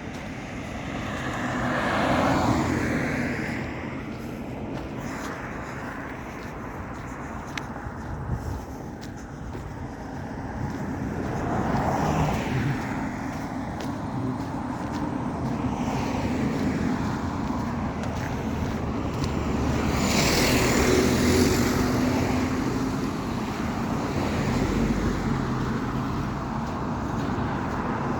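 Road traffic: a steady hum of vehicles, with several cars passing one after another, the loudest about two thirds of the way through.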